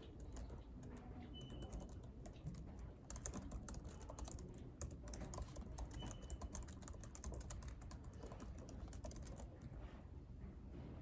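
Typing on a computer keyboard: runs of quick key clicks, thickest through the middle and thinning out near the end, over a low steady room hum.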